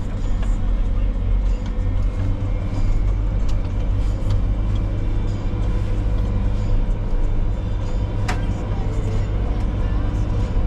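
Heavy diesel engine of gravel-loading machinery running steadily with a deep rumble, with scattered light clicks and knocks and one sharp click about eight seconds in.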